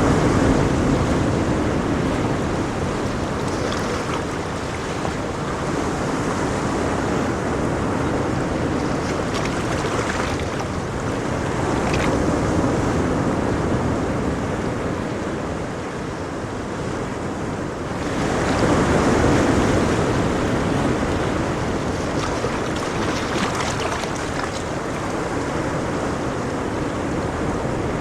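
Ocean waves washing onto a shore, a continuous surf with slow swells in loudness, one wave louder about 19 seconds in.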